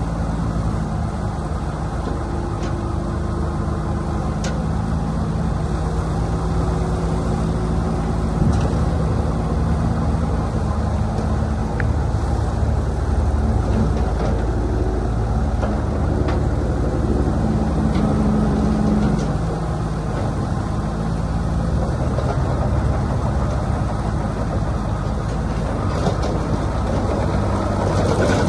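Komatsu PC50UU-1 mini excavator's diesel engine running steadily, its note shifting a little now and then, with a few faint clicks.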